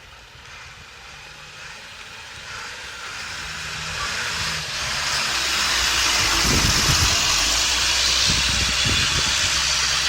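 M1079 LMTV military truck's turbocharged diesel pulling up a hill in second gear, with its turbo spooling up. A rising turbo hiss builds over the engine's low rumble, and the whole sound grows steadily louder.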